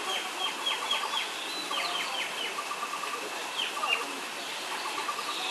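Birds calling: repeated runs of short, quick notes that fall in pitch, with softer runs of rapid lower notes between them, over a steady thin high tone.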